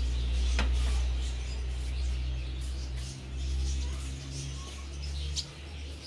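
Small birds chirping in short, high, scattered calls over a steady low hum.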